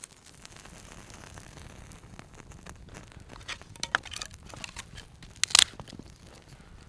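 Paper crinkled, crumpled and torn by hand while setting up a campfire, with scattered crackles and one loud rustling burst about five and a half seconds in.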